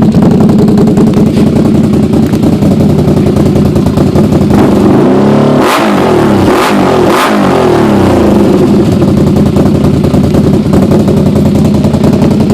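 2009 Can-Am Renegade 800X's Rotax V-twin engine running through a full Ron Woods racing exhaust: steady idle, then three quick throttle blips about halfway through, then back to idle.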